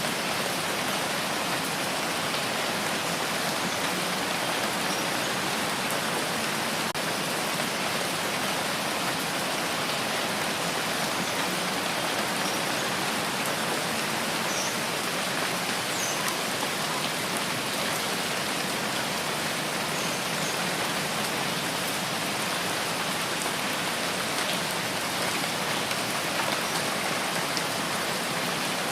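Steady rain falling, an even, dense hiss with faint scattered drop ticks.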